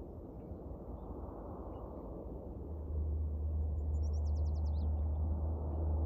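A steady low rush of jet noise from an Airbus A320-200 on approach, with a deeper low rumble that grows louder about three seconds in. About four seconds in, a bird gives a quick trill of about seven falling chirps.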